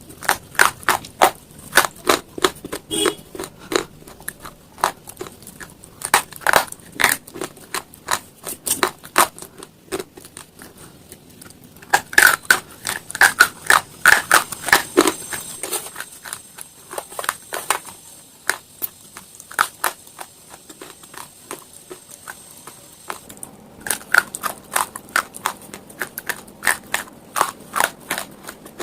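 A person biting and chewing crunchy slate stone pieces: rapid sharp crunches in clusters, with quieter stretches about ten seconds in and again from about seventeen to twenty-three seconds.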